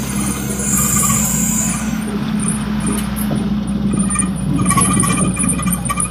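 Truck engine running steadily on the road, a continuous low drone with a constant hum, with fainter higher-pitched sounds coming and going.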